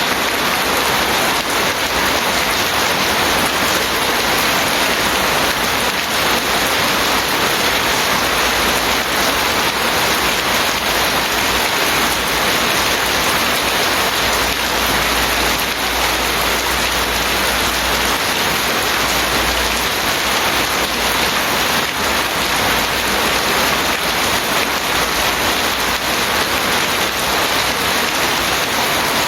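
Steady heavy rain falling, a dense even hiss of drops hitting surfaces with no let-up.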